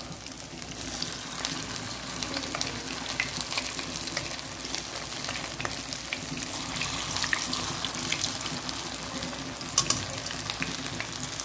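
Tofu, shrimp and vegetable balls frying in shallow oil in a pan: a steady sizzle full of small crackles and pops, with a couple of sharper clicks near the end.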